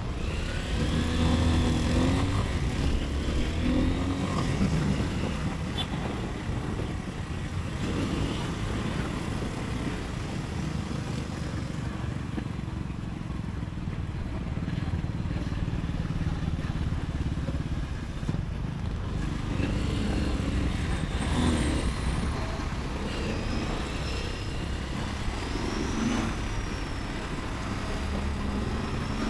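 Motorcycle engine and road noise heard from the rider's own bike riding through city traffic, with the engine pitch rising and falling a few times as it speeds up and slows.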